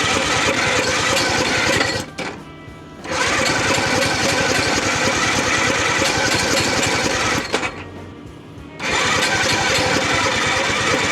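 Hercules W2000's Fichtel & Sachs single-rotor Wankel engine being cranked over in three long bursts with short pauses between, turning quickly but not catching and running.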